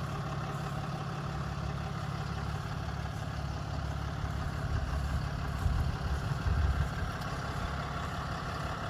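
A 2017 RAM chassis-cab truck's engine idling with a steady low rumble, briefly louder and uneven between about five and seven seconds in.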